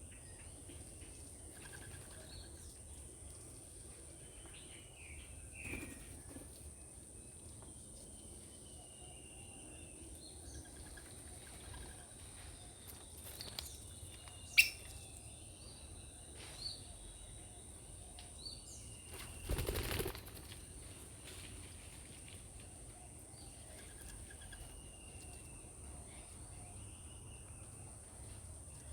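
Birds calling outdoors with short, scattered chirps and sweeping calls over a steady high-pitched whine. A single sharp click comes about halfway, and a brief rustling burst follows a few seconds later.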